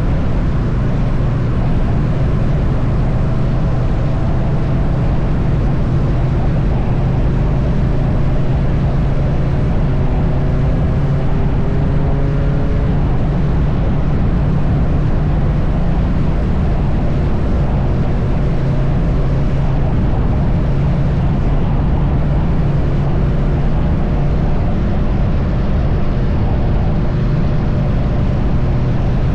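Triumph Bonneville T100 parallel-twin engine cruising at a steady highway speed, a constant low drone under a steady rush of wind and road noise.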